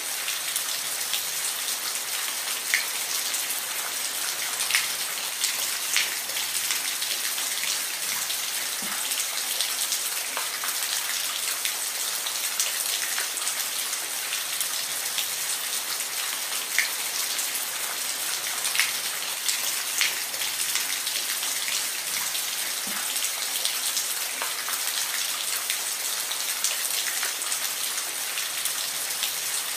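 Steady rain: a continuous high hiss with individual drops ticking sharply here and there.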